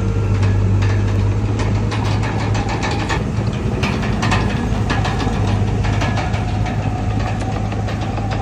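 Komatsu D31PX crawler bulldozer's diesel engine running steadily, with frequent sharp metallic clanks and knocks.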